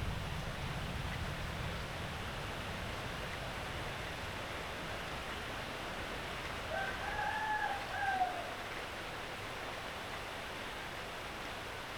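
Steady rain falling, with a rooster crowing once about seven seconds in: a single call of under two seconds that rises, holds and falls away.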